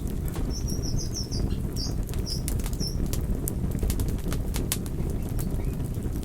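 Wood campfire crackling, with frequent sharp pops over a steady low rush. A small bird chirps a quick run of short high notes in the first half.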